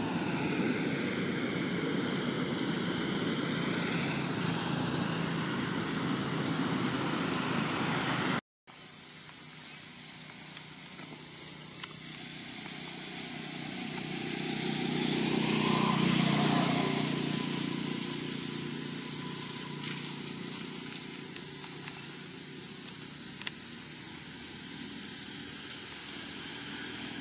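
Outdoor background noise with road vehicles passing. After a brief dropout about a third of the way in, a steady high-pitched hiss dominates, and a vehicle passes, swelling and fading around the middle.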